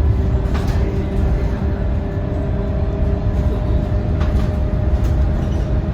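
Scania K230UB bus in motion, its five-cylinder diesel engine and drivetrain giving a steady low rumble. A whine runs through it and shifts higher about two seconds in, with a few light rattles.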